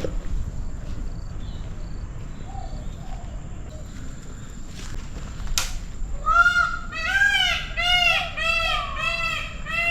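A bird giving a run of about eight loud honking calls, each rising and falling in pitch, about two a second, starting some six seconds in. A single sharp click comes just before the calls.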